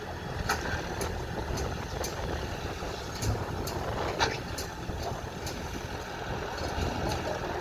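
Excavator engine running with a steady low rumble, with sharp clicks about twice a second over it.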